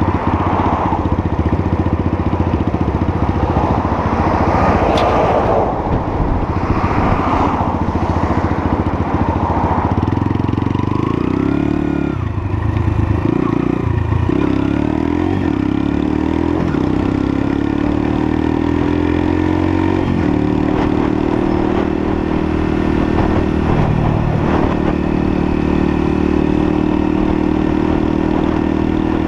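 Lexmoto LSM 125's 125cc engine running under way, its pitch changing several times around the middle and then holding steady near the end, with wind rushing over the microphone in the first part.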